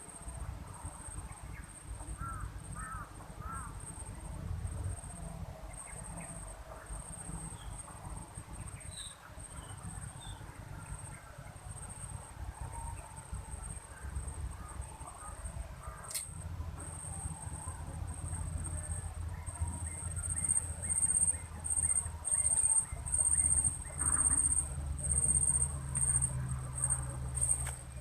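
A high-pitched insect buzz, cricket- or cicada-like, runs steadily and then pulses in loud, rhythmic bursts through the last third. A low rumble sits underneath, with a few faint bird chirps about two seconds in and a single sharp click midway.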